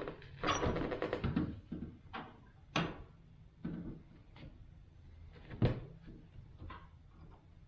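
A door being handled and test-fitted in its framed opening: a run of clattering knocks in the first second and a half, then a few separate knocks and thumps, the loudest about six seconds in.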